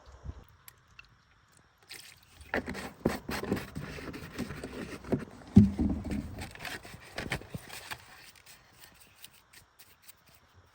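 A run of scraping and knocking, busy and irregular, that starts about two seconds in and dies away after about six seconds, with its loudest knock in the middle.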